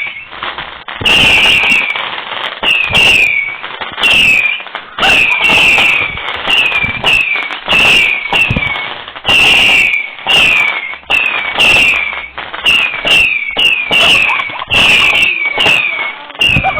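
Multi-shot firework cake (an 81-shot barrage) firing a long rapid string of launches, about one to two a second. Each bang is followed by a brief high falling whistle, and the volley stops near the end.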